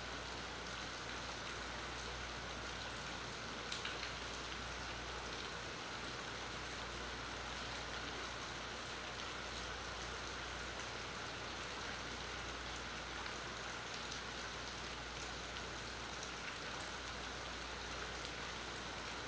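Steady rain falling, heard through a phone's built-in microphone, with scattered drop ticks and a short cluster of sharper ticks about four seconds in.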